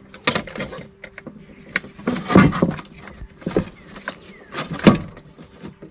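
Irregular clicks, scrapes and rustles of a new choke and throttle cable assembly being handled and fed into place, with a couple of sharper knocks, the loudest about two and a half and five seconds in.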